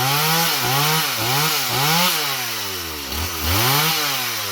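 Gasoline chainsaw engine revving up and down repeatedly, about twice a second, its pitch rising and falling with each throttle blip.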